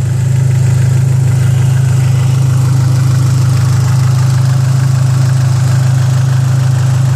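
Big-turbo 2004 Dodge SRT-4's turbocharged 2.4-litre four-cylinder idling steadily, a loud, even low hum close by.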